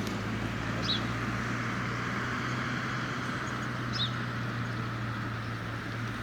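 Outdoor ambience: a steady low hum and a continuous background wash, like distant traffic, with short high bird chirps about a second in and again about four seconds in.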